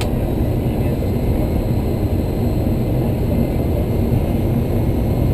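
Steady rumble inside a Boeing 737-300 cockpit: engine and airflow noise, even and unbroken.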